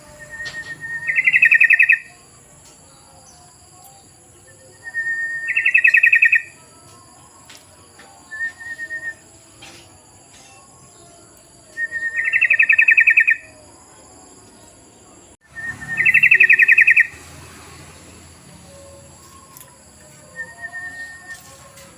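Yellow-vented bulbul song: four loud phrases, each a short steady note running into about a second of rapid bubbling chatter, with a couple of short single notes in between.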